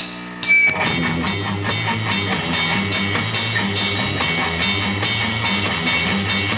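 Live rock band of electric guitar, bass and drum kit starting an instrumental intro. The full band comes in well under a second in, with a fast, even beat of cymbal strokes over the bass and guitar.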